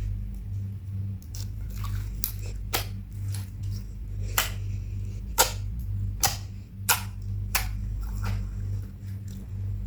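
Slime being squished and mixed by hand, giving sticky pops and clicks at uneven intervals over a low steady hum.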